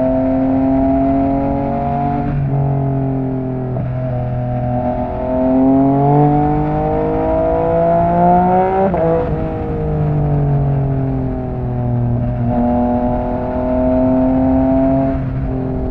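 Yamaha MT-09's three-cylinder engine through an Akrapovic exhaust, accelerating through the gears: the engine note climbs, breaks off briefly at each gear change, and picks up again, several times over.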